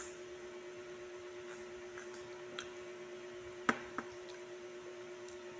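A soft bread bun being bitten and chewed, with quiet squishy mouth sounds and a few soft clicks, the sharpest a little under four seconds in, over a steady faint hum.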